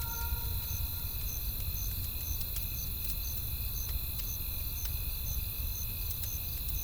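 Crickets chirping in a steady rhythm, about two chirps a second, over a low rumble, with scattered sharp crackles and pops from a burning wood fire.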